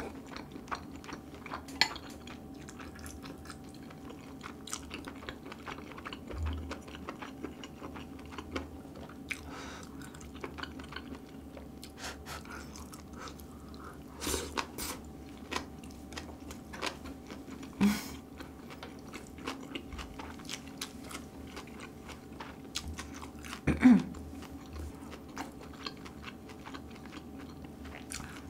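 Close-miked chewing and wet mouth sounds of a person eating seasoned grilled duck ribs, many small clicks over a faint steady hum, with a few louder clicks, the loudest near the end.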